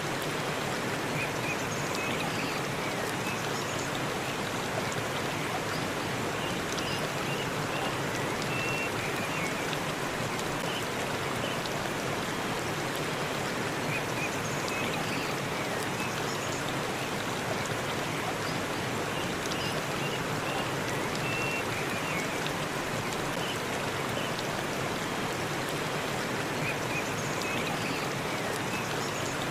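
Forest waterfall rushing steadily, a constant even roar of falling water. Faint high chirps come and go every few seconds over it.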